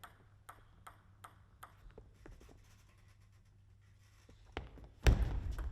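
Table tennis ball bouncing in a string of sharp, quickening clicks, then a pause and a single tap. A sudden loud burst of crowd noise breaks out near the end.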